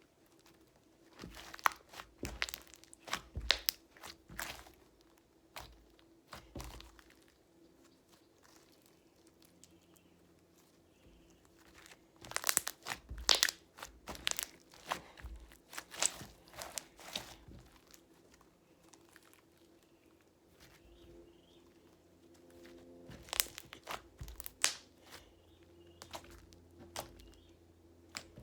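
Hands kneading and stretching stiff slime with dried clay worked into it, giving irregular clusters of crackling clicks and pops with quieter stretches between.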